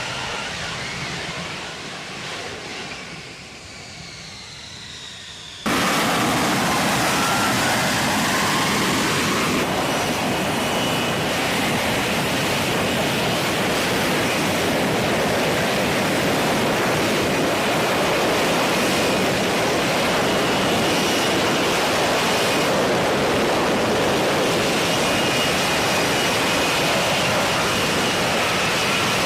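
F-35B Lightning II jet noise: a jet fades away over the first few seconds, then after a sudden cut a loud, steady jet engine roar with a faint high whine runs on.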